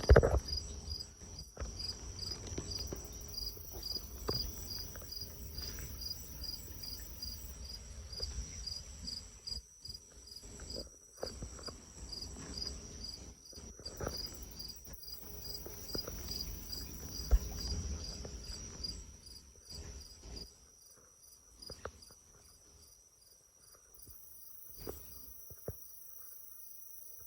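Crickets chirping steadily in an even pulse, about three chirps a second. Under them is a low wind rumble on the microphone that dies away about twenty seconds in. A sharp, loud thump comes right at the start.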